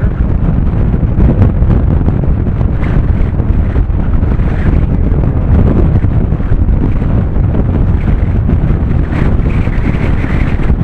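Heavy wind hitting the microphone of a camera on a moving bicycle: a loud, steady low rush of wind noise.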